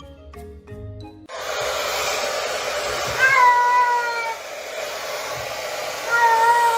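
A domestic cat meowing twice, two long calls that rise slightly and then fall, over a steady rushing hiss. Music with mallet-like notes plays for the first second or so.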